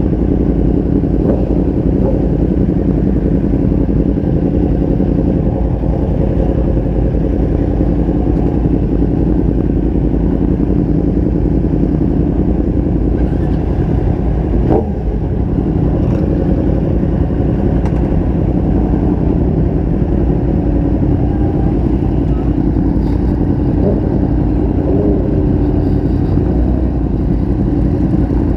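Motorcycle engine running steadily at riding speed, with road and wind noise. There is a brief click about halfway through.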